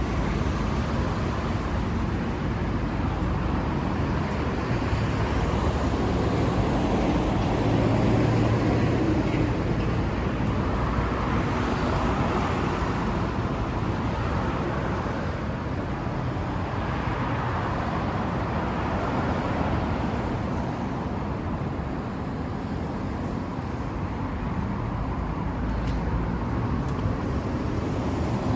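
Kawasaki Z900RS's inline-four engine running steadily, with only gentle swells in level and no sharp revving.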